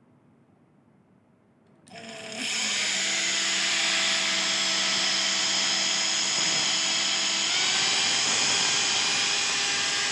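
Makita DTD152 cordless impact driver switched on about two seconds in and running steadily with a motor whine, spinning without hammering; its pitch steps up slightly a few seconds later.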